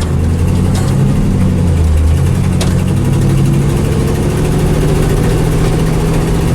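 Dump truck's engine running steadily, its note shifting in pitch about two seconds in.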